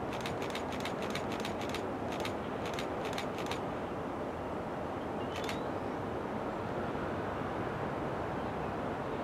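Freight train led by diesel locomotives approaching, a steady rumble with a run of sharp clicks in the first few seconds and one more about five seconds in.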